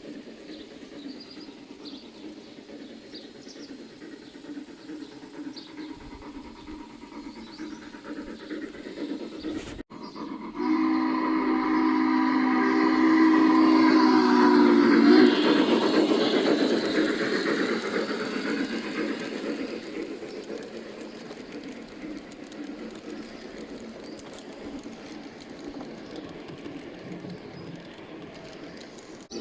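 G-scale model locomotive's onboard sound unit blowing one long horn chord of about five seconds as the train runs past. Its wheels click and rumble on the garden track, loudest around the horn, then fade away.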